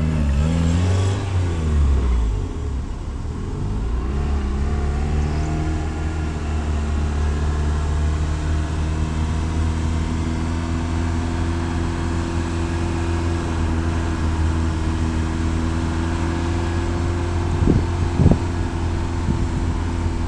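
Turbocharged Honda Civic's B16 four-cylinder engine running, with the revs swinging up and down near the start, then a long steady pull with the pitch slowly climbing. A couple of sharp clicks come near the end.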